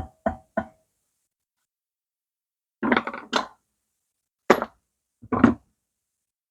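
Metal engine parts and tools knocked and set down on a workbench. Quick taps with a faint ringing tone in the first second, then a clatter about three seconds in and two more clunks near the end.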